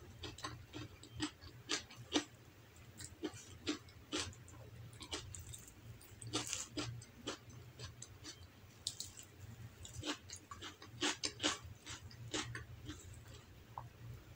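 Close-up chewing: irregular wet mouth clicks and smacks as a mouthful of rice and food is eaten.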